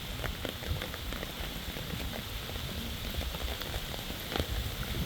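Rain falling steadily during a thunderstorm, with many close drops ticking sharply over an even hiss.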